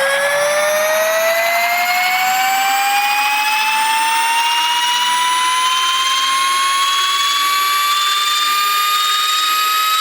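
Synth riser: a noise oscillator's sample pitched upward by a long envelope, a noisy whoosh with several tones gliding steadily upward, the climb slowing as it goes.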